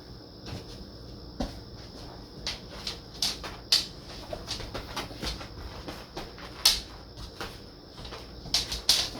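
Irregular sharp clicks and light knocks, a dozen or so spread over several seconds, the loudest about two-thirds of the way through, as a trained dog works through a trick.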